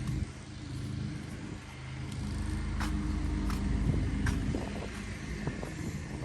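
Straight-piped Dodge Durango's exhaust running while driving, the engine note swelling over a couple of seconds and then easing off. A few sharp clicks sound over it.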